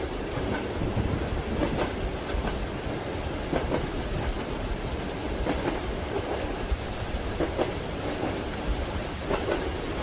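Train wheels clacking over rail joints about every two seconds, with a steady low rumble of the carriage under a constant hiss of rain.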